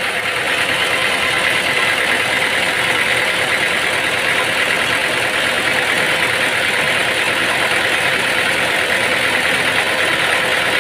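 A motor running steadily at a constant speed, an even mechanical noise with a steady hum and no breaks.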